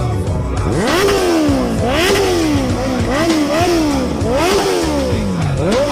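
Motorcycle engine revved repeatedly, about five blips, each rising sharply in pitch and falling back.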